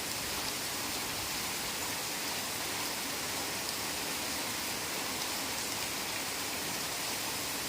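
Heavy rain falling steadily: an even hiss with scattered drops pattering, unchanging throughout.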